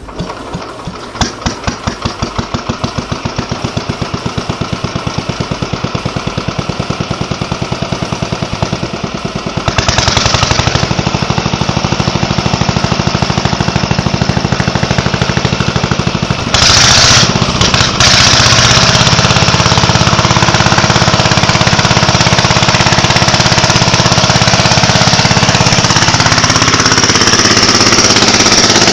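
Bernard W12 small engine starting up and running, first with slow, distinct firing beats, then picking up speed about ten seconds in. It falters briefly a little past halfway, then runs steadily at a higher speed.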